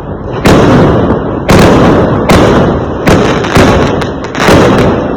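Fireworks going off: about six loud bangs, each trailing away in a rumbling echo, coming a second or less apart.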